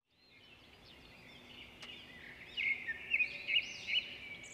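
Birds chirping: many short rising-and-falling calls, fading in at the start and growing louder about two and a half seconds in. A single faint click a little before the two-second mark.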